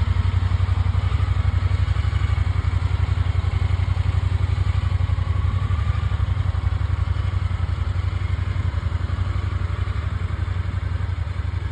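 Honda Pioneer 1000-5 side-by-side's parallel-twin engine idling steadily with a fast, even low pulse.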